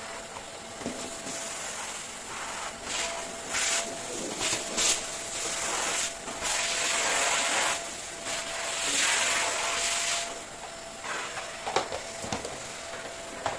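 Household cleaning: a surface being rubbed or wiped in several strokes of a second or two, with a few light knocks near the end, over a faint steady hum.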